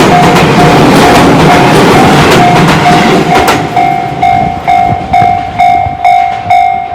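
An electric train runs past over the level crossing with clacking wheels. The noise ends about three and a half seconds in. Throughout, the crossing's electronic alarm, Tobu's type C warning tone, dings about twice a second, clear on its own once the train has gone.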